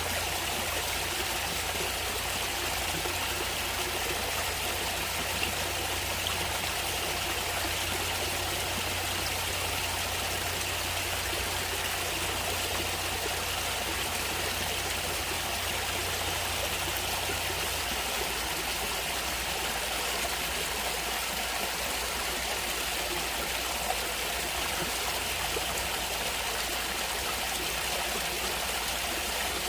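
Natural stream water flowing steadily, an even rushing sound without a break.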